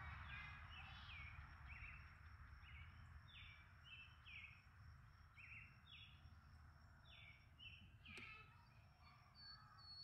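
Faint bird chirping: a run of short, falling chirps, roughly one a second, over a steady high insect drone, with a single sharp click about eight seconds in.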